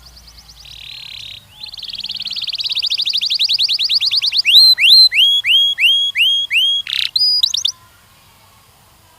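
Canary singing: a short buzzy note, then a fast rolling trill that swells in loudness, followed by a run of loud down-slurred whistles about three a second. The song ends with a buzzy note and a brief quick trill, then stops.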